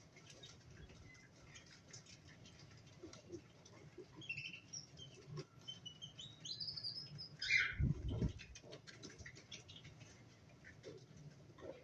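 Cockatiels giving a few short chirps and then one arched whistle, over light scratching and pattering of feet and beaks. About eight seconds in there is a single dull thump.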